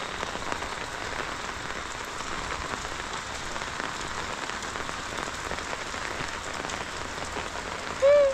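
Steady rain falling, a dense even patter throughout. A brief vocal sound comes in near the end.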